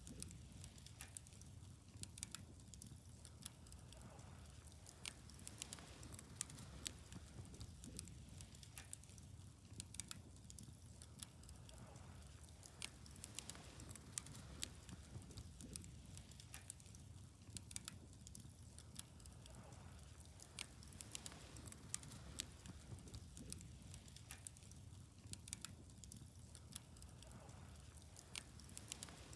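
Wood bonfire burning quietly, crackling with frequent irregular sharp pops and snaps over a low steady rumble.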